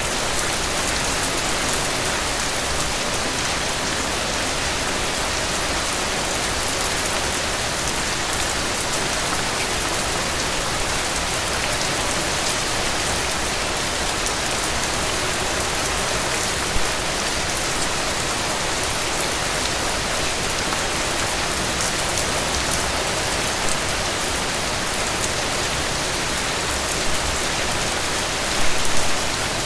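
Steady heavy rain, an even hiss of drops falling on surfaces, with a few brief louder drops or splashes near the end.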